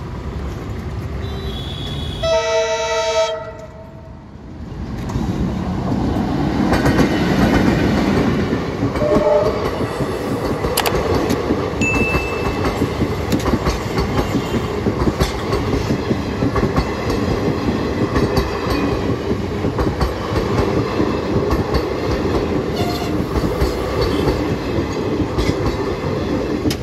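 Indian Railways passenger train sounding its horn once, briefly, about two seconds in, then its coaches passing at close range with a continuous rumble and wheels clattering over the rail joints.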